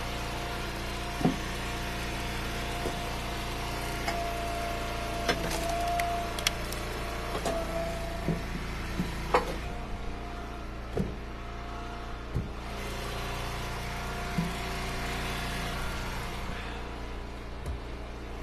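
Wood splitter's engine running steadily while firewood rounds are split, with about a dozen sharp knocks of wood and a thin squeal for a few seconds around the middle.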